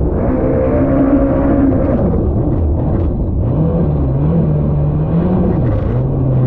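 Personal watercraft's supercharged Yamaha SVHO engine running, its pitch rising and falling with throttle changes over a constant low rumble.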